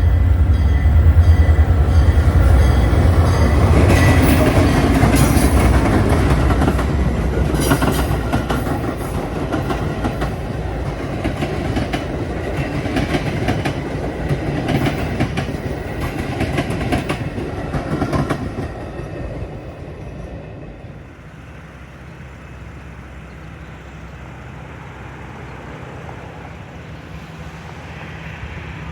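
A passing train: a heavy low rumble at first, then wheels clattering over rail joints in a long run of clicks, fading away about twenty seconds in and leaving a quieter steady background.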